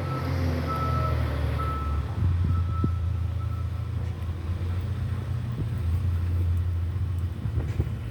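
A steady low rumble with a high electronic beep repeating in short pulses for the first three seconds or so.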